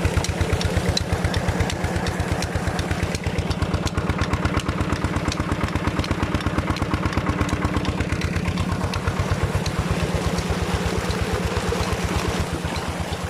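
Petter diesel engine driving a tubewell pump, running steadily with a fast, even chugging beat.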